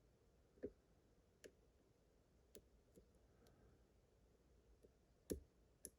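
Faint, sparse clicks of a lock pick probing the pin stack of a challenge lock and checking each pin for binding under tension. There are about six separate clicks, with the sharpest two near the end.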